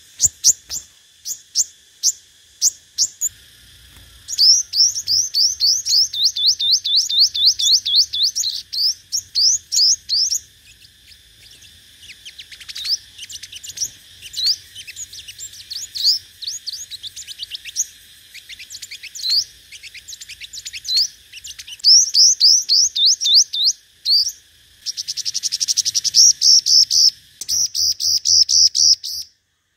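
Sunbird song: fast runs of high, thin, downward-slurred notes, several a second, in bursts of a few seconds with short pauses. It is the competitive song used as a lure to draw other sunbirds.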